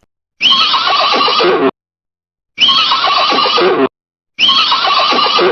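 Horse neighing: the same whinny three times, each about a second long, with short silences between them.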